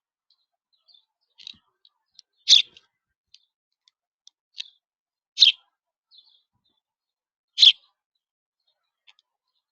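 A bird giving three loud, short, sharp call notes about two to three seconds apart, with fainter chips between them.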